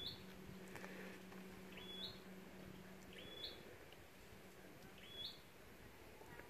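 A bird calling repeatedly: four short, identical two-step calls, each a high note that jumps a little higher, about every one and a half seconds. A faint low hum runs through the first half.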